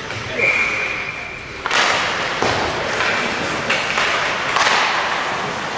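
Ice hockey game play in an arena: skates on the ice and several sharp knocks of puck and sticks against the boards, with a steady high tone held for about a second near the start.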